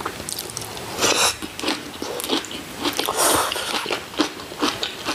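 Close-up eating sounds: crunchy bites and chewing of pickled cabbage, with the loudest crunches about a second in and just past three seconds.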